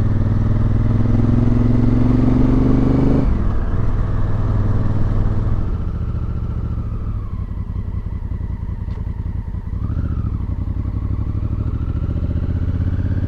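Motorcycle engine pulling uphill, its pitch rising for about three seconds before dropping suddenly as the revs fall, then running steadily and more quietly at lower revs.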